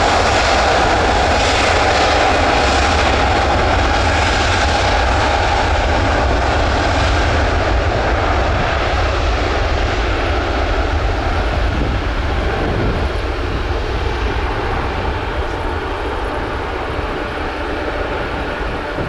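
Emirates Airbus A380's four jet engines at take-off power: a loud, steady rumble that from about halfway through slowly fades and loses its high end as the aircraft climbs away.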